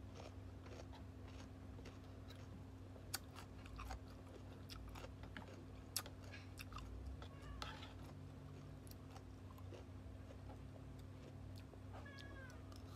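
Close-up chewing and crunching of raw cucumber slices, with a few sharp clicks of a metal spoon against a ceramic bowl.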